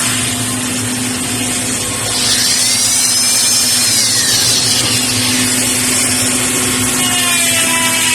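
A power tool's motor running steadily, its high whine gliding up and back down once midway through.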